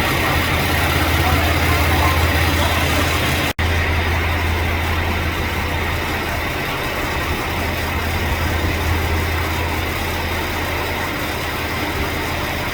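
Diesel engine drone and running noise of a KiHa 281 series diesel railcar, a steady low hum under an even rush of noise. It cuts out for an instant about three and a half seconds in.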